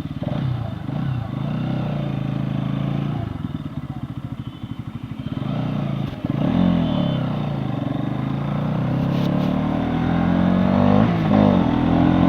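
Bajaj Pulsar NS200's single-cylinder engine under way, its revs rising and falling, with a brief drop about six seconds in before it climbs again.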